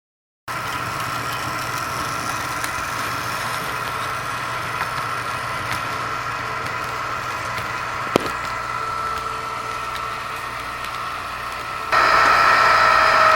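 Märklin HO model locomotive running on track with a steady high motor whine and hum, a single sharp click about eight seconds in, and growing louder about twelve seconds in.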